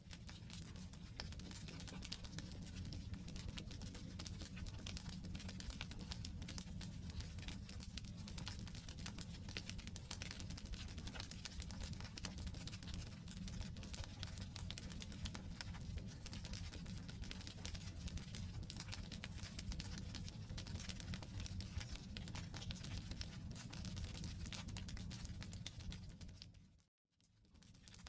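Wood campfire burning: a constant dense crackle of small pops and snaps from the logs over a low rumble of flame. The sound dips to silence for a moment near the end, then comes back.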